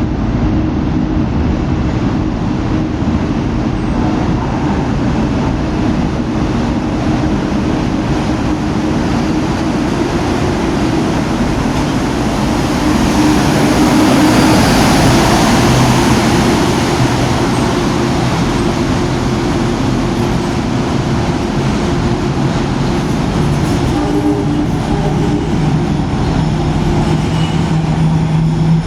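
Subway work locomotive hauling three flatcars through a station, a steady rumble of wheels on rail with a humming tone, loudest about halfway through as it goes by.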